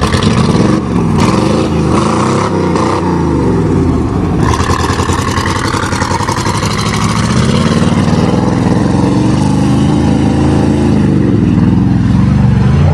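A 1988 Chevy pickup's 305 small-block V8 revving hard in the mud, its pitch climbing and dropping again and again as the throttle is worked. About four seconds in it holds a steadier high rev with a rushing noise over it.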